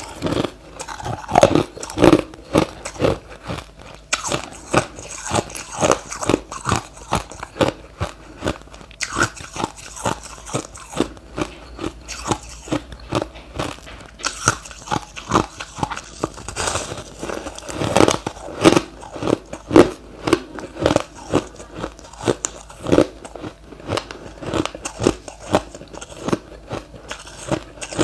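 Close-miked chewing of refrozen crushed ice, a rapid run of hard crunches, several a second.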